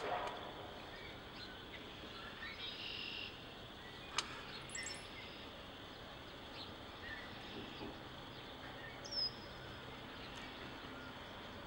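Scattered short, high bird chirps and twitters over a steady outdoor background hiss, with a sharp click about four seconds in and a brief, louder down-slurred chirp about nine seconds in.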